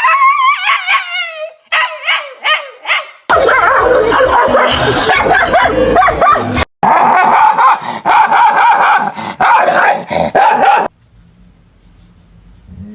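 A dog whining, then yipping in short repeated calls, then barking loudly and almost without pause for about seven seconds, reacting to its own reflection in a mirror. It stops abruptly about eleven seconds in.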